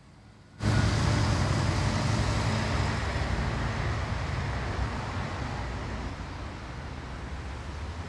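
A loud, even rumbling noise that cuts in suddenly about half a second in and slowly grows quieter.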